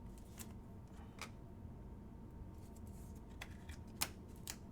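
Faint steady low hum with about five light, sharp clicks spread across a few seconds, the loudest about four seconds in.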